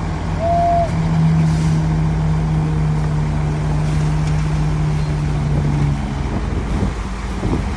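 Heavy diesel engine of earthmoving machinery running with a steady low hum that falls away about six seconds in. A brief higher tone sounds under a second in.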